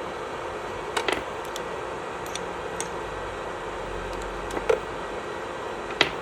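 Electric nail drill (e-file) running steadily with its bit working on the nails, a steady whirring hum. A few sharp clicks or taps come about a second in, near the five-second mark and near the end.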